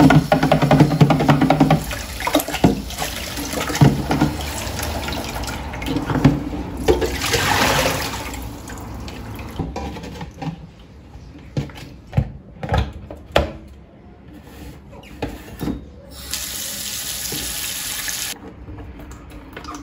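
Water running from a kitchen tap into the sink, coming and going, with sharp knocks in between.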